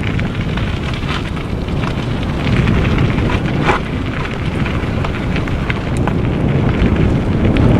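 Mountain bike ride on a dirt trail: steady wind rumble on the microphone, with scattered clicks and rattles from the bike over the ground.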